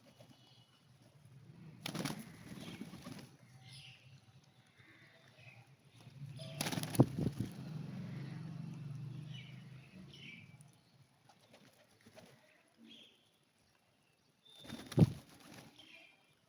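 Pigeons flapping their wings in three short bursts, about two, seven and fifteen seconds in, with low cooing in between and faint chirps of other birds.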